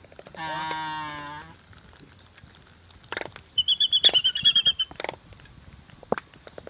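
Animal calls. A drawn-out harmonic call starts about half a second in and lasts about a second. Near the middle comes a fast, high, chattering trill of chirps, with sharp clicks scattered between the calls.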